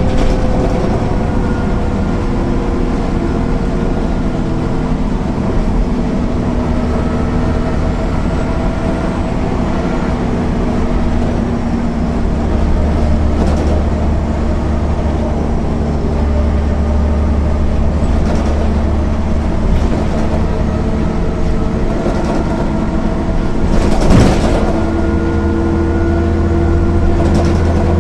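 MAN NL 262 city bus engine and ZF 5 HP 600 automatic gearbox running while the bus drives, the pitch easing down slightly at first and then holding fairly steady, with a deep hum partway through. Short knocks or rattles come through now and then, the loudest about 24 seconds in.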